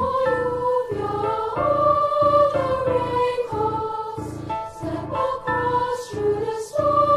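Choral music: voices holding a slow, gliding melody over an accompaniment of steadily repeated chords.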